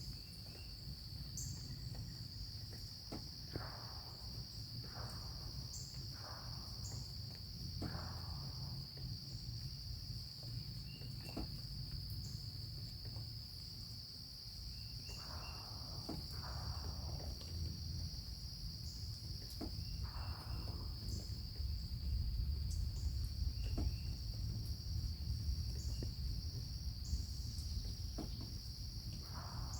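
Insects trilling in a steady high drone over a low rumble, with faint short high chirps every few seconds.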